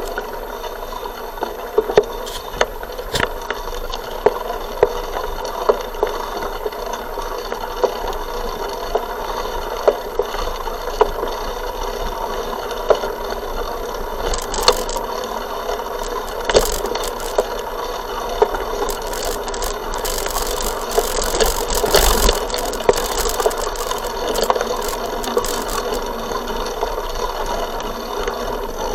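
Bicycle riding over a rough forest track, heard through an action camera mounted on the bike: a steady rolling rumble with frequent sharp knocks and rattles from the frame and mount. The noise swells for a few seconds about twenty seconds in.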